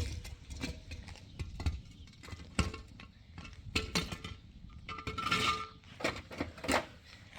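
Irregular knocks and metallic clinks, a few of them briefly ringing, with a sharp knock at the start.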